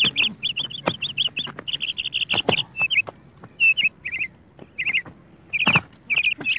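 Small birds chirping in quick runs of rapid, repeated chirps with short pauses between runs, and a few sharp knocks among them, the loudest near the end.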